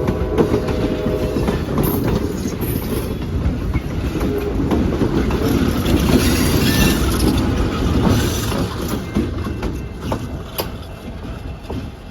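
Train passing close by, its wheels clattering and clicking over the rail joints, and the sound eases off over the last few seconds. A horn chord carries on through about the first second and a half, then stops.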